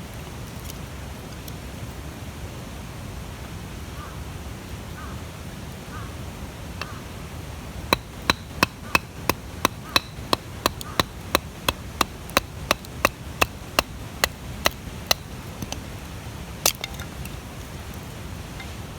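Wood being chopped in quick, even strokes, about three sharp knocks a second for some seven seconds, then one more a little later, over a steady low rumble.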